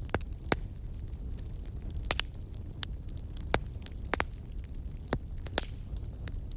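Campfire crackling: about ten sharp pops and snaps at irregular spacing over a steady low rumble.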